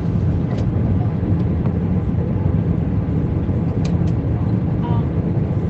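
Airbus A320 passenger cabin in flight: a steady, deep rumble of engine and airflow noise, with a few faint clicks.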